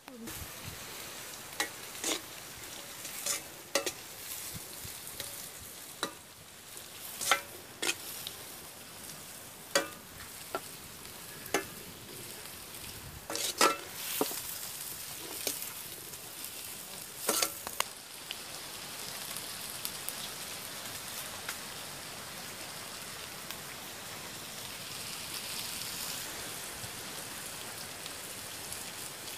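Chopped onions and green chillies frying in a metal wok, sizzling steadily. For the first half a perforated metal ladle stirs them, clacking and scraping against the pan every second or two; after that only the sizzle goes on.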